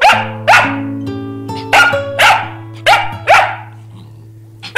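A dog barking, about seven sharp barks that come mostly in quick pairs, over background music with steady held notes.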